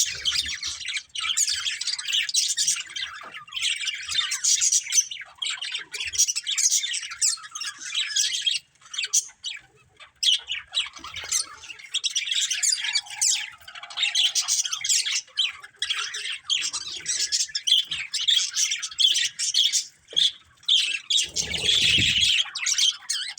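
A flock of budgerigars chirping and warbling continuously, many rapid high calls overlapping, with a couple of brief lulls. A short low thump sounds near the end.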